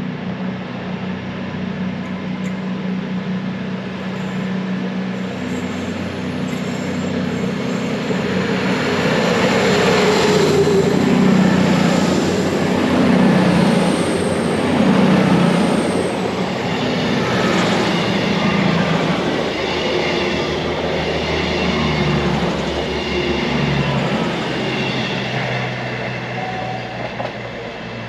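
A train running past on the rails, growing louder to a peak midway and then easing off, with high-pitched wheel squeal.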